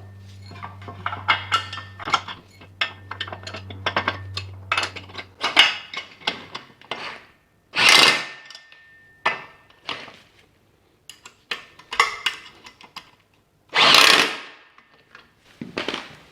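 Metal brackets and bolts clanking and knocking as they are fitted to a motorcycle engine and its engine stand, with a power tool running in two short bursts a few seconds apart, each about three-quarters of a second long. A low hum runs under the first few seconds.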